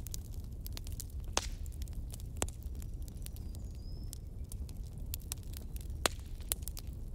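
Wood fire crackling: a steady low rumble of burning with sharp, irregular pops and snaps. A faint short high whistle comes about four seconds in.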